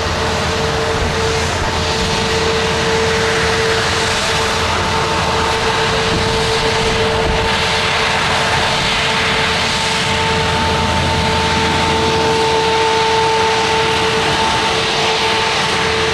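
Boeing 737 MAX 8 airliner on its landing approach, its CFM LEAP-1B jet engines giving a steady rushing noise with two constant whining tones.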